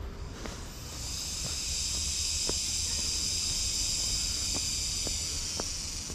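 A high-pitched hissing buzz that swells in about a second in, holds steady for several seconds and fades near the end, with a few faint ticks underneath.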